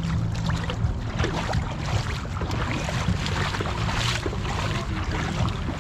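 Shallow seawater splashing and sloshing irregularly around a kayak as it is handled in the water, over a steady low rumble of wind on the microphone.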